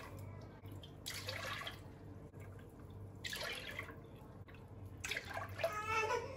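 Water splashing in three short spurts, like a tap being run briefly, with a short pitched call starting near the end.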